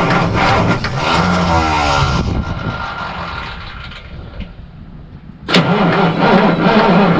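Diesel truck engine being cranked by its starter without catching, the cranking slowing and dying away about two seconds in as the run-down batteries give out. A loud sound starts abruptly about five and a half seconds in.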